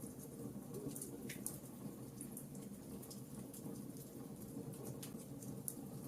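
Wood logs burning in a fireplace: many small sharp crackles and pops at irregular moments over a steady low rush of the flames.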